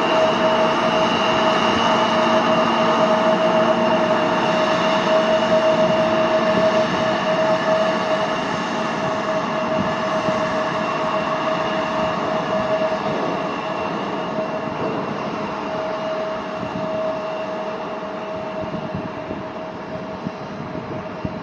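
Jet aircraft engines running with a steady whine over a broad rush, slowly fading away.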